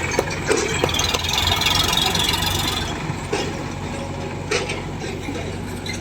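Heavy diesel engine running steadily, with a few sharp metallic knocks scattered through.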